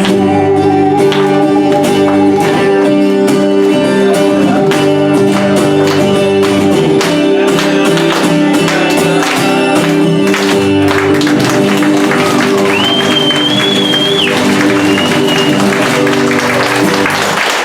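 Instrumental ending of a bard song: strummed acoustic guitar chords ringing on steadily. A high held note comes in about two-thirds of the way through.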